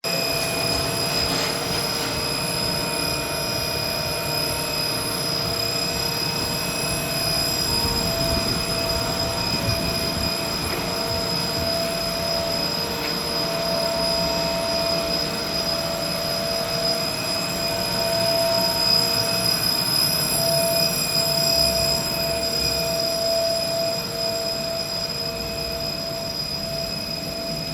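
Machinery running steadily: a low rumble with several constant high-pitched whines held above it.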